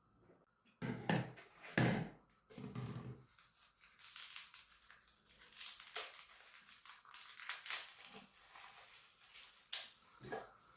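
Three short low sounds in the first three seconds, then a run of light rustling, crinkling and scraping handling noises.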